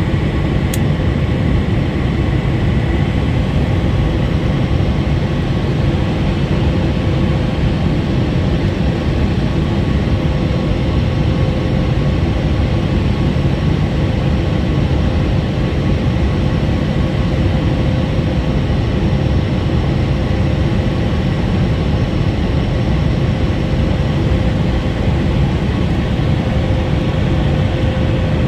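Steady roar of a Boeing 737 MAX 8's CFM LEAP-1B engines and the airflow, heard inside the cabin, with faint steady whining tones over it.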